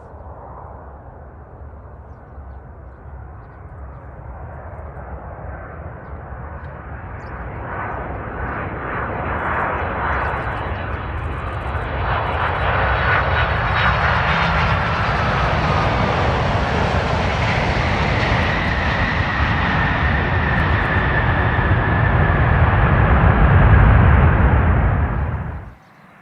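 Jet engines of a Boeing 767 airliner passing close by, growing steadily louder as it approaches, with a whine that falls in pitch as it goes past. A deep rumble peaks near the end, and the sound cuts off abruptly just before the end.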